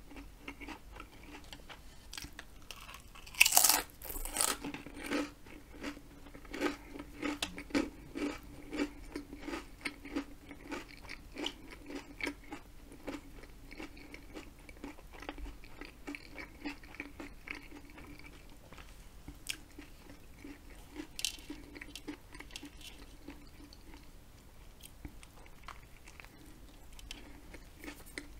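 Close-miked chewing and biting of a Subway salami-and-ham sandwich on a soft bread roll, a steady run of wet mouth sounds, with one loud bite about three and a half seconds in.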